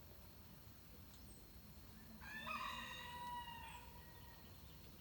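A rooster crowing once, a single drawn-out call of about a second and a half that rises at the start and trails off, heard at dawn. A few faint, short high bird chirps sound around it.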